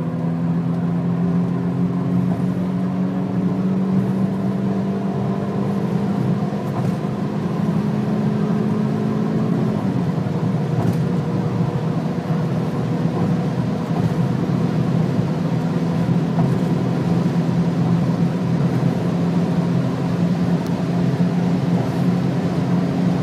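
Audi A6 C5 2.4-litre V6 engine pulling under sustained acceleration through its Tiptronic automatic gearbox. The engine note climbs slowly, drops at an upshift about ten seconds in, then climbs slowly again, over a steady rushing noise.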